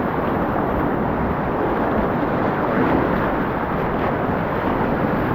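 Loud, steady rush of whitewater rapids close to the microphone, a dense even roar with no pauses.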